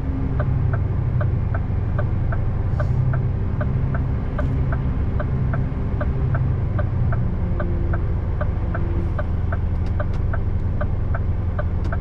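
Scania R590 V8 truck engine running with a steady low drone while the truck creeps along slowly. A sharp, regular ticking of about two to three ticks a second runs over it.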